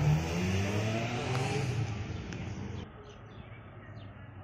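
Toyota Corolla police car's engine revving as it pulls away, rising in pitch and then fading. About three seconds in it drops suddenly to a quieter street background with a few bird chirps.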